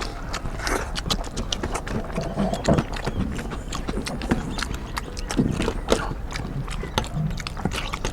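Close-up eating sounds of people eating rice and curry by hand: a dense, irregular run of wet smacks and clicks from chewing and mouths, with a few short low mouth noises.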